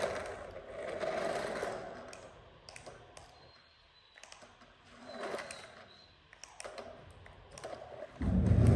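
Small electric motors of toy RC vehicles whirring in short runs, with scattered plastic clicks and rattles. A much louder low hum starts suddenly about eight seconds in.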